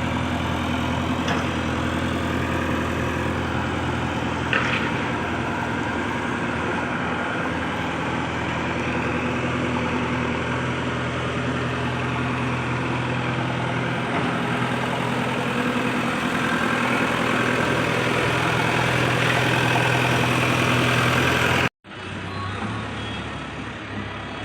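Heavy diesel engine of earthmoving machinery running steadily, with a brief high squeak about four and a half seconds in. The sound cuts off abruptly near the end and a quieter engine sound follows.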